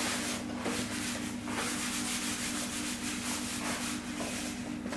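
A steady low hum with a rough rubbing noise that swells and fades over it.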